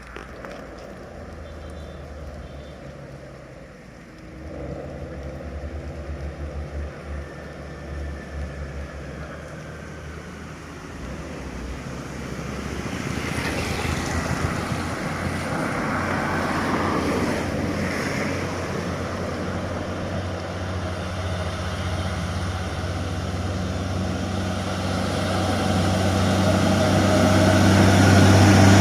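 Heavy diesel truck engine running under load on a steep climb, a steady low drone that grows louder through the second half as the truck draws near.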